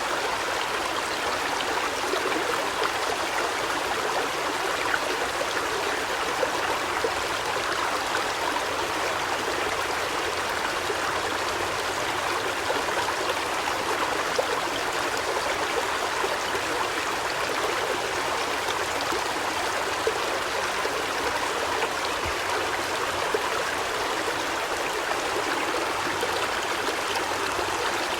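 Steady rushing and trickling of running water, even and unbroken throughout.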